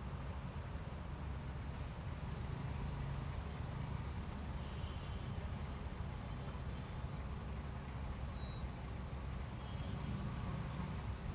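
Honda ADV 150 scooter running while being ridden: a steady low rumble with no letup.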